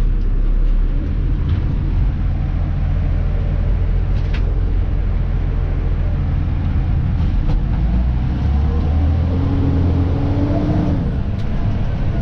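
Dennis Elite 2 refuse truck's diesel engine running steadily while driving, heard from the cab, with a few sharp knocks and rattles. About 8 s in, a tone rises and then falls away near the end.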